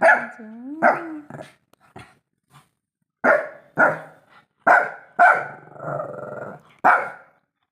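A pet dog barking in short sharp barks, mostly in pairs. Between the last barks comes a longer, rough growly stretch of about a second.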